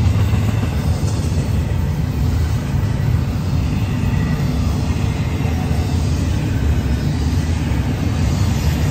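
Union Pacific double-stack container train rolling past at speed: a steady, loud low rumble of wheels and cars on the rails, with faint high wheel tones above it.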